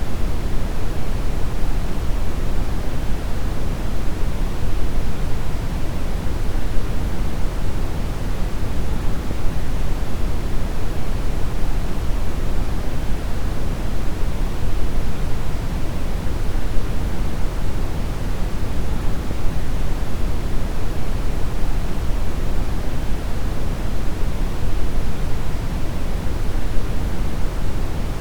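Steady brown noise: a deep, even hiss strongest in the bass and falling off toward the highs, unchanging throughout.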